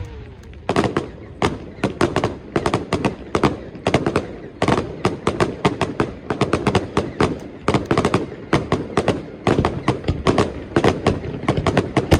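Aerial fireworks going off in a rapid, irregular string of sharp bangs and cracks, several a second, starting about half a second in.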